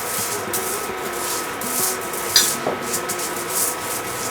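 Repeated rubbing and swishing strokes on a sheet of aluminium foil, as the foil is brushed and worked by hand, with one sharp click about two and a half seconds in.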